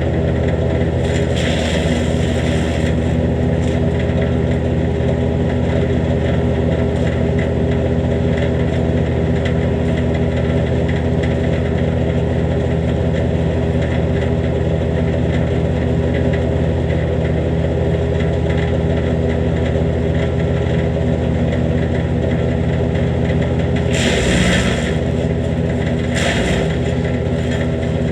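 Jansen GTS-1500 wood chipper's engine running steadily at a constant speed. Brief rushes of louder, hissier noise come over it about a second in and twice near the end.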